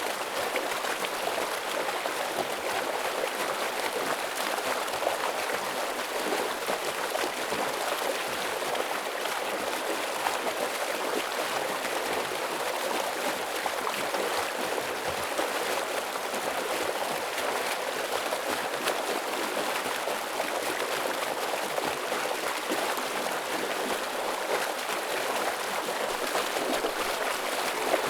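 Stream water rushing and splashing over rocks, a steady dense hiss.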